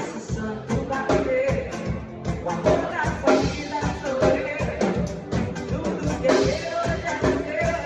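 Live band music with a steady drum beat and pitched instruments, playing an instrumental passage of a romantic song without vocals.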